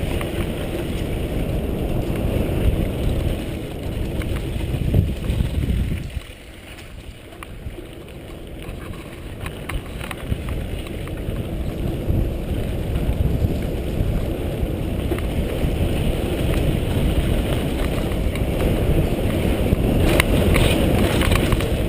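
Wind rushing over the microphone with a rumbling, rattling ride over rough trail at speed. It drops quieter for a couple of seconds about six seconds in, then builds back up.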